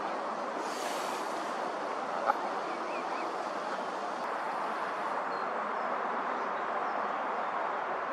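Steady rushing outdoor background noise, with a single short click about two seconds in.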